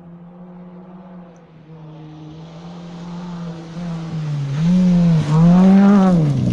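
Rally car engine approaching on a special stage, growing steadily louder, then revving hard close by with its pitch rising and dipping several times as the driver lifts and changes gear, falling away sharply at the end.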